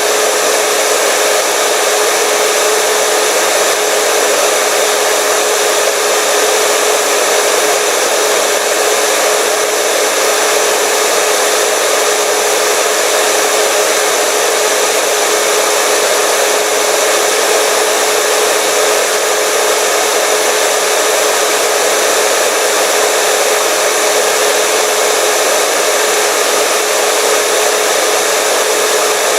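Hair dryer running continuously at a steady speed: a constant rush of air with a steady motor hum.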